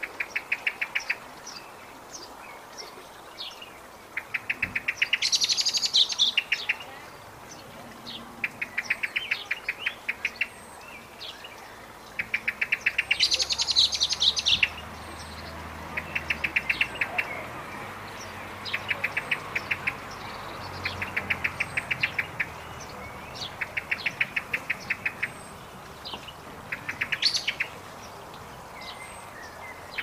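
Birds at a woodland feeding stump: repeated short runs of rapid, even ticking, each about a second long, come every couple of seconds. Faint high thin calls are scattered among them, and two louder, harsher bursts come about five and thirteen seconds in.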